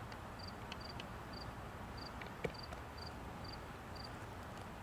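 Faint insect chirping: short, high-pitched double chirps repeating about twice a second over a quiet background, with one light click about two and a half seconds in.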